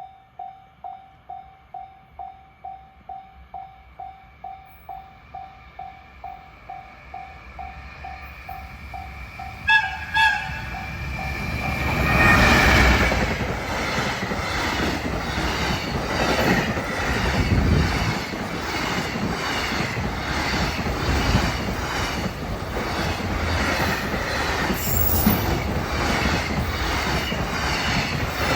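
A warning bell rings steadily at about two strikes a second as a freight train approaches. About ten seconds in, the train sounds a short courtesy horn, then passes close by with a steady rhythm of wheel clicks over the rail joints.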